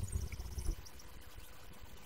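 A bird's quick high-pitched trill of about eight rapid notes within the first second, over a low rumble that fades out soon after.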